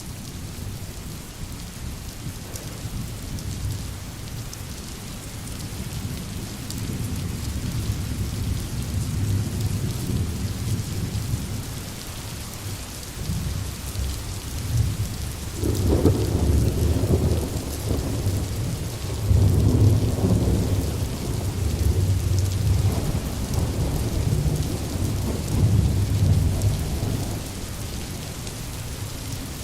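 Rain falling on a tin roof, a steady hiss, with thunder rumbling low underneath; the thunder grows louder about halfway through and swells several times.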